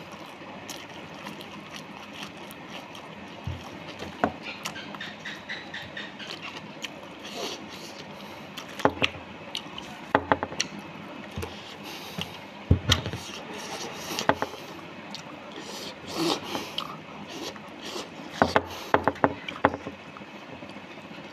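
Close-up eating sounds: a person chewing a mouthful of rice with wet mouth smacks and lip clicks, which come in quick clusters about halfway through and again near the end, over a steady background hiss.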